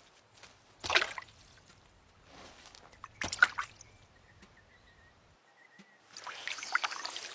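Small splashes and drips of water in a shallow puddle: two brief splashes about one and three seconds in, then a steady wet crackling trickle from about six seconds.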